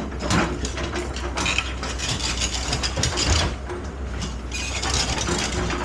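Excavator at work: its diesel engine runs steadily under irregular metallic clanks, knocks and scraping.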